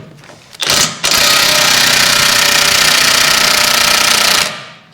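DeWalt impact wrench hammering on a stuck bolt: a short burst, then about three and a half seconds of continuous hammering before it stops. The bolt does not come free.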